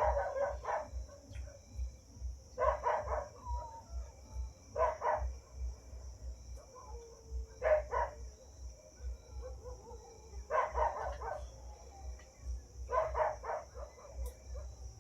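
A dog barking in volleys of several quick barks, six volleys spaced about two to three seconds apart.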